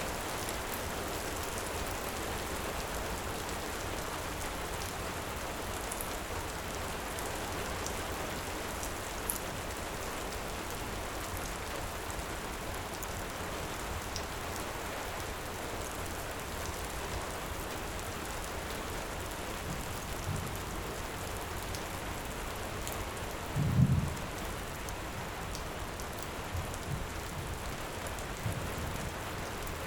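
Steady heavy rain, with sparse faint crackles from a wood fire. A few short, low thumps come in the second half, the loudest about three-quarters of the way through.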